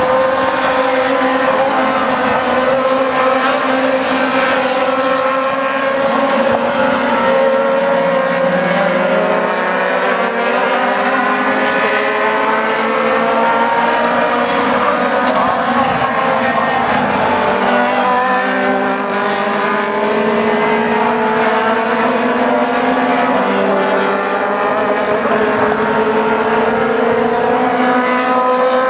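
A pack of Aussie Racing Cars running together at high revs, their Yamaha 1300 cc four-cylinder motorcycle engines giving several overlapping engine notes that slowly rise and fall in pitch. The sound stays loud and steady throughout.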